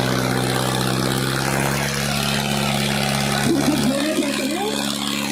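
Tractor diesel engine running at a steady speed, a constant hum with an even low drone. A voice is heard briefly over it about three and a half seconds in.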